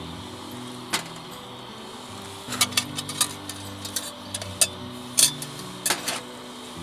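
Scattered sharp metallic clinks and knocks of cookware and utensils, bunched in two clusters, over quiet background music with long held notes.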